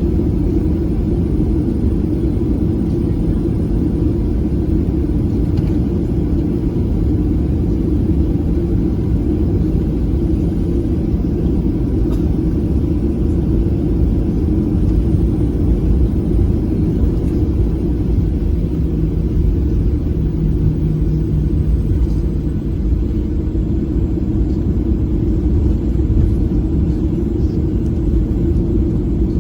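Boeing 737 cabin noise: a steady, deep rumble of engines and airflow that holds level throughout.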